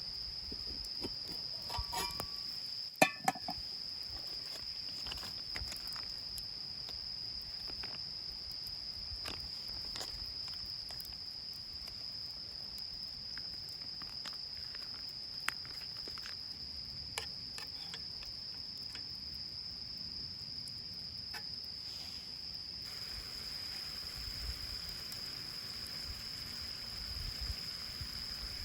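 Crickets trilling in one steady high tone, with scattered sharp pops and clicks of a crackling campfire. A soft hiss comes in about three quarters of the way through.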